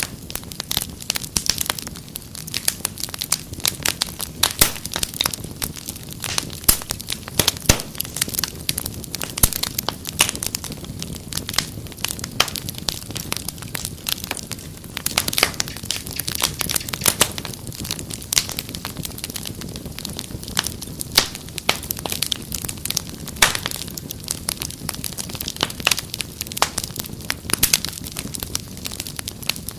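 Wood fire crackling steadily: dense, irregular pops and snaps over a low steady rumble of the flames.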